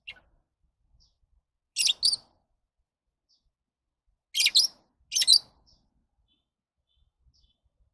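Lovebirds giving short, high-pitched chirps in three quick bursts: one about two seconds in and two more close together just past the middle.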